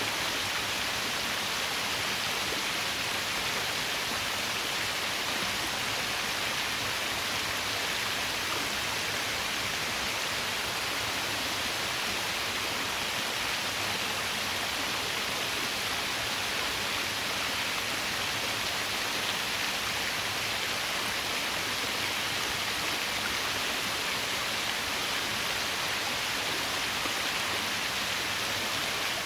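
Small waterfall pouring steadily over a layered-stone ledge beneath a rock overhang: an even, unbroken rush and splash of falling water.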